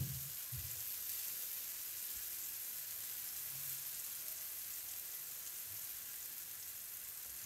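Round tomato slices frying in cooking oil in a flat pan, a steady sizzle.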